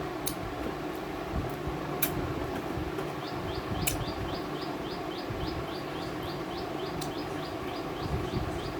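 A bird calling with a short, high chirp repeated about three times a second, starting about three seconds in, over a steady background hum. A few sharp clicks come through, one about two seconds in and another near four seconds.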